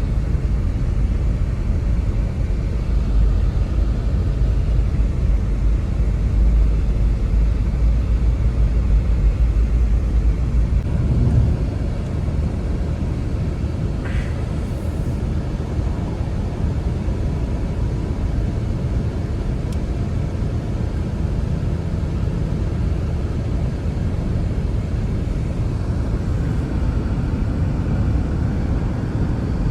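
Strong snowstorm wind: a steady low rush with heavy rumble on the microphone, easing slightly about eleven seconds in.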